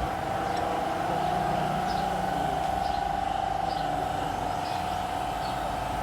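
Steady machine hum with a fine, rapid flutter, and faint light ticks over it.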